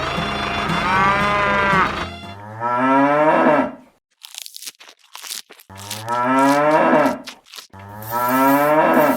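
Cattle mooing: three long moos after a couple of seconds of background music, with short crunching noises between the first two.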